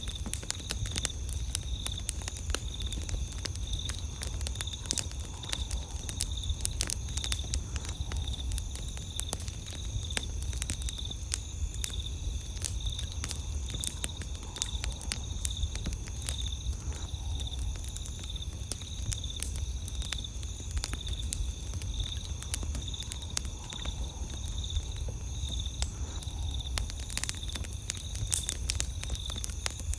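Campfire crackling with frequent sharp pops and snaps, over a steady high, pulsing trill of night insects.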